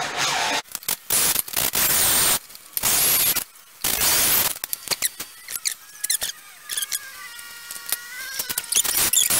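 Handheld power drill boring into the lamp's top piece, run in several short bursts on the trigger. In the second half it turns more slowly with a wavering whine.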